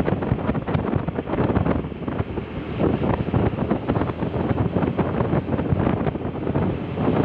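Wind buffeting the microphone: a dense, gusty rushing noise that flickers in level throughout.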